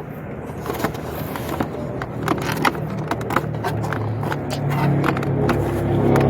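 Plastic clicks and knocks as the parts of a car instrument cluster are handled and fitted together, with a low steady hum growing louder in the second half.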